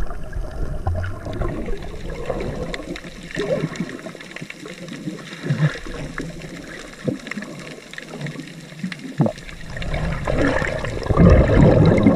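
Sea water sloshing and gurgling, with scattered small knocks; quieter in the middle and louder again near the end.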